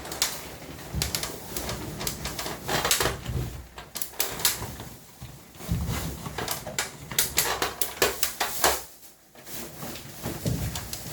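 Irregular clicks, knocks and rattles of air-conditioner parts and tools being handled, with a short lull near the end.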